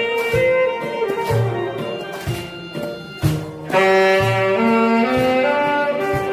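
Saxophone playing a slow Korean trot melody in held notes over an accompaniment with bass and a steady beat about once a second. The melody drops away briefly past the middle and comes back louder.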